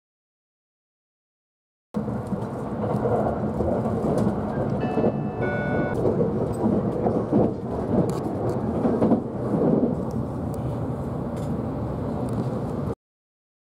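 Train running on the rails, heard from inside the passenger car: a loud, steady rumble and rush of wheels on track that starts abruptly about two seconds in and cuts off suddenly near the end. Around the middle there are a few brief high squeaks.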